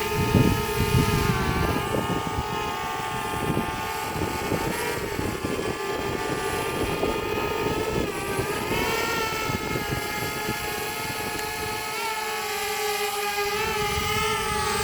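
DJI Spark quadcopter's propellers and motors whining with a steady buzzing hum, the pitch shifting slightly up and down as the motors adjust. Wind buffets the microphone, easing off about twelve seconds in.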